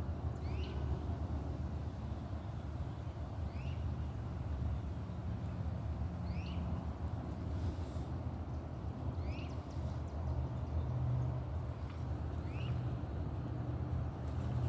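A bird repeating a short two-part chirp, a higher note then a lower one, about every three seconds, five times, over a steady low rumble.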